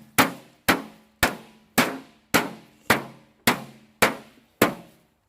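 Sledgehammer striking a microwave's sheet-metal casing: about ten evenly spaced blows, a little under two a second, each with a short metallic ring.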